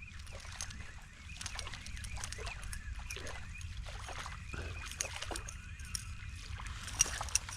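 Faint water lapping and small knocks and clicks around a fishing kayak, over a steady low rumble.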